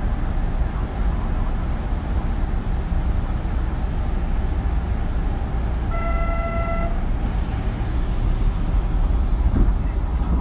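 Hanshin 9000 series electric train running at speed, a steady low rumble of wheels and running gear heard from inside the car. About six seconds in, a short horn toot of under a second sounds over it.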